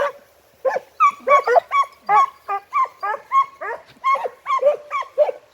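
Segugio scent hounds giving tongue on a hare's trail: a quick run of high, falling yelps, about three or four a second, that stops shortly before the end.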